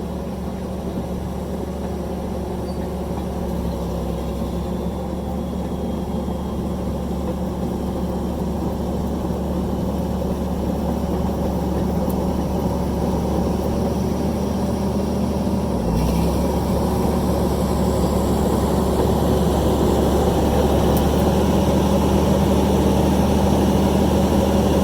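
Fiat-Allis 11-B crawler dozer's diesel engine running steadily as the machine is driven, gradually getting louder.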